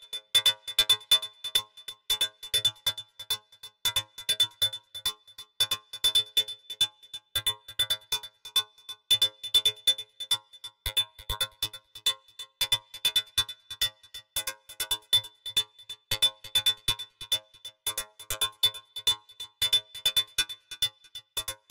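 Electronic techno loop playing: rapid, evenly repeating short percussive hits over a low drum-machine thump pattern, with a steady high-pitched tone running through it.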